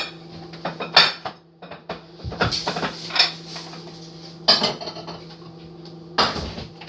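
Irregular clatter and clinks of hard objects being handled and set down, several separate knocks over a steady low hum.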